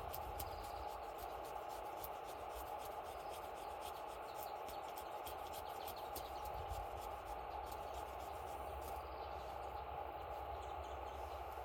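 Campfire burning: a steady rushing hiss with frequent small crackles and snaps throughout.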